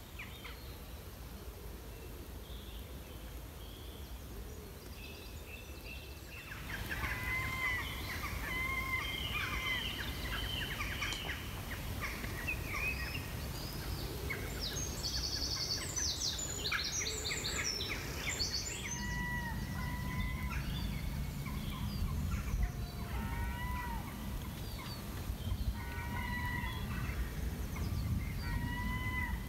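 Several birds calling and singing over a low background rumble, starting about six seconds in: repeated short hooked whistles, with higher, rapid trills midway.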